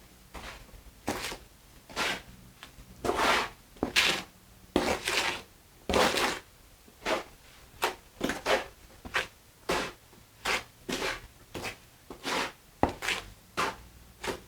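Wet mortar being mixed and scraped with a trowel: a string of irregular rasping scrapes, about one or two a second, with sharper knocks of the tool between them.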